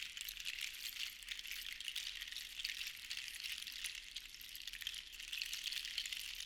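Sea shells shaken so they rattle against each other: a dense, continuous clatter of tiny clicks that swells and eases every couple of seconds.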